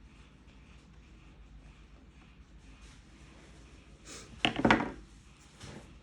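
Quiet room tone, then about four and a half seconds in a brief clatter of hard objects being handled on a workbench, with a softer knock near the end.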